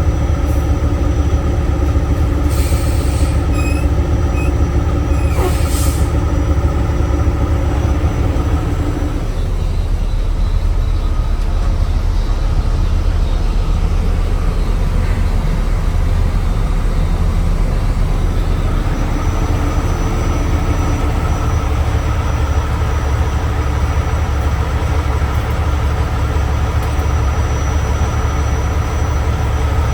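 Logging truck's diesel engine running steadily under way. Two short hisses come about three and six seconds in. The engine note drops back about nine seconds in and builds again about twenty seconds in.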